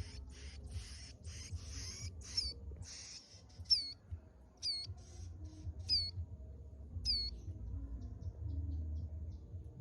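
A ciblek gunung (prinia) calling. It gives a fast run of harsh, buzzy chips, about three a second, for the first three seconds, then four clear, hooked, high whistled notes about a second apart, then a few faint ticks. A low steady hum runs underneath.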